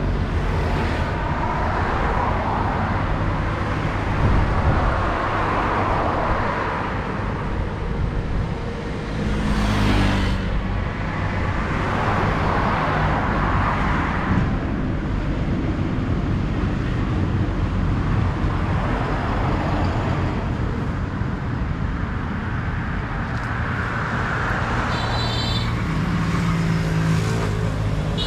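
Road traffic: a steady low engine rumble with several vehicles passing one after another, each a swell of engine and tyre noise lasting a few seconds.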